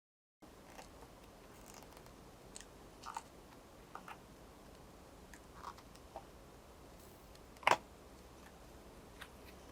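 Faint, scattered small clicks and taps of metal tweezers working at a laptop display's stretchable adhesive tape, with one sharper click near the end.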